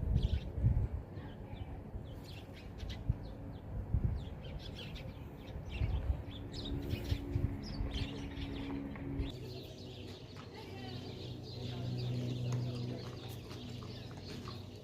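Birds chirping in short calls over irregular low thuds and rumbling, with a steady low hum in the second half.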